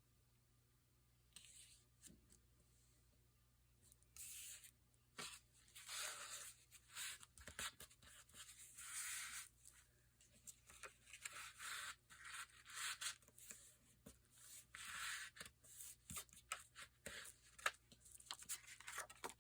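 Paper being worked by hand: quiet, short rustling and tearing rasps with small clicks, starting about a second in and repeating irregularly.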